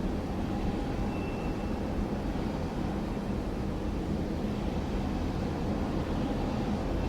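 Jet airliner engines heard at a distance, a steady low rumble that neither rises nor falls.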